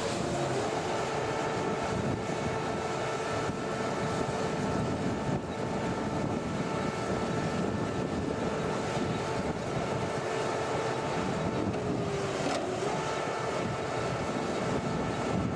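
A motor or engine running steadily with a constant whine, dipping briefly in pitch about 12 seconds in.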